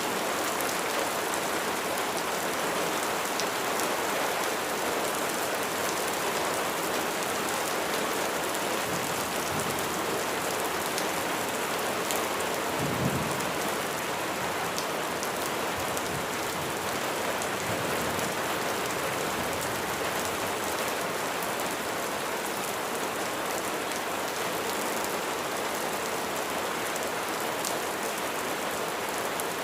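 Steady, heavy rain pattering on a surface, with fine drip ticks scattered through it. About halfway through, a short low rumble of thunder.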